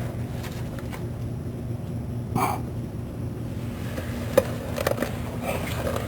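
Hand tools working a tight exhaust bolt under a car: a sharp metallic click about two-thirds of the way in and a few lighter knocks near the end, over a steady low hum. A short vocal grunt comes a little before the middle.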